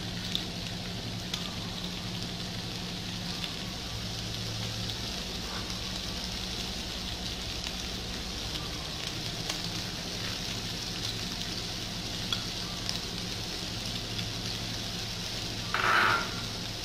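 Pork pieces frying in oil in a steel wok, a steady sizzle with a low hum underneath. A brief louder noise comes near the end.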